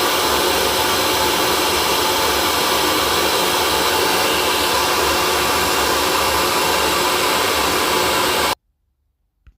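Hair dryer running with a steady, even whoosh of blown air and motor hum, played as soothing white noise for a colicky baby; it cuts off abruptly about a second before the end, followed by silence and a faint click.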